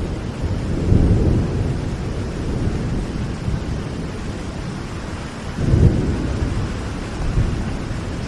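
Steady rain with low rumbles of thunder, swelling about a second in and again, loudest, at about six seconds.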